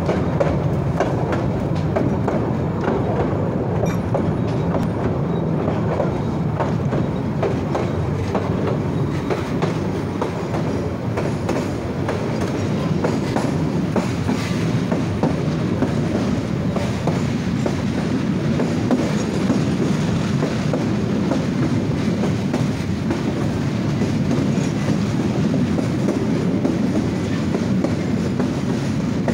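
Kurigram Express passenger train running along the track, heard from the open door of a moving coach: a steady rumble with wheels clattering over the rails.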